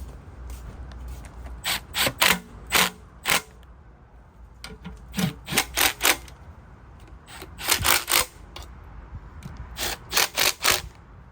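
Ratchet running down oil pan bolts: short bursts of ratchet clicking on each back-swing, in four runs of three to five strokes with brief pauses between.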